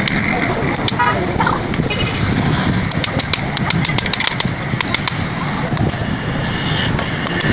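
Irregular sharp metallic clicks and taps of hand tools at work on a motorcycle engine, over a steady background rumble.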